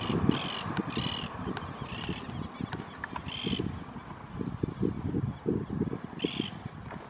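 A bird giving short, harsh, caw-like calls, five in all, about a second apart at first, then a gap of nearly three seconds before the last. Under them runs a low, uneven rumble, like wind on the microphone.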